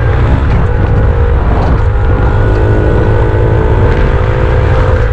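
Small dirt bike engine running under throttle, its pitch dipping and climbing again a few times as it is ridden, with heavy wind rumble on the microphone.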